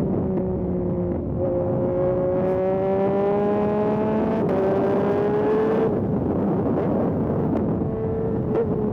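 Yamaha MT-09 SP's three-cylinder engine through an aftermarket Dominator exhaust, accelerating hard with the pitch climbing, a quick upshift about four and a half seconds in, climbing again, then the throttle closes around six seconds and it runs on at lower revs.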